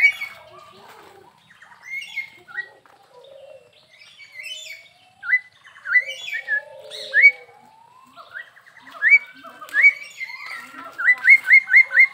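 A myna (jalak Hongkong) singing in full voice: bursts of short, sharply rising whistled notes mixed with lower warbling and chatter. A quick run of several whistles comes near the end.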